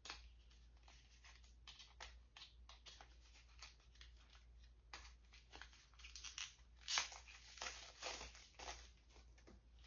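Faint crinkling and scattered small clicks of a cosmetic product and its packaging being handled, with the sharpest click about seven seconds in.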